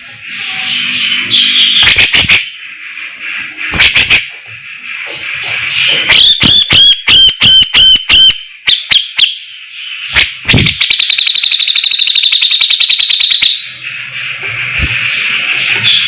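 Grey-cheeked bulbul (cucak jenggot) singing loudly in varied phrases. Sharp clicking notes lead into a quick run of looping whistled notes about halfway through, then a fast rattling trill lasting a couple of seconds, with more clicks near the end.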